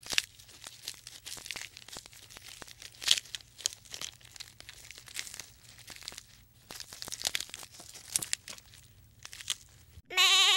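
A giraffe tearing leaves from a bundle of leafy branches as it feeds: irregular rustling and crackling of leaves and twigs. Near the end a goat bleats once, short, loud and wavering.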